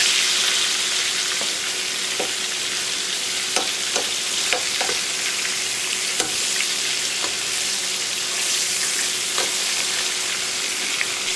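Egg-and-flour-coated rabbit pieces frying in hot grease in a stainless steel pan: a steady sizzle with scattered pops and crackles.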